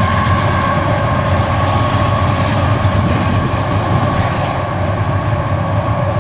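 Union Pacific freight train running by, a steady loud rumble of diesel locomotives and rolling cars with a constant ringing tone in it, easing off slightly near the end.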